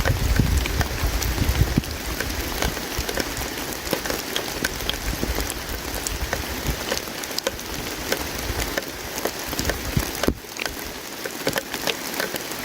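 Campfire crackling, with frequent sharp pops over a steady rushing hiss. A low rumble underneath fades out about two seconds in.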